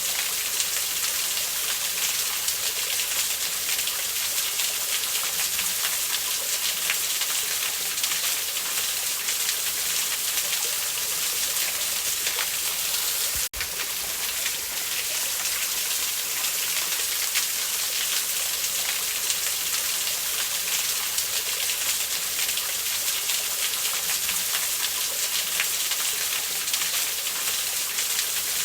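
Steady rush of waterfall sound laid over a crackling wood campfire, with fine pops and ticks running through the hiss of the water. The sound drops out for an instant about halfway through.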